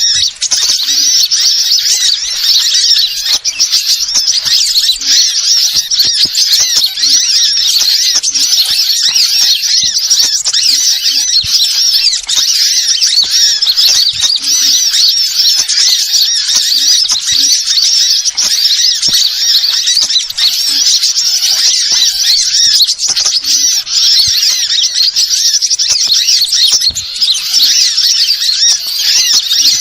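Many small birds twittering and chirping, dense and high-pitched without a break: a bird-lure (pikat) call recording used to draw wild birds in.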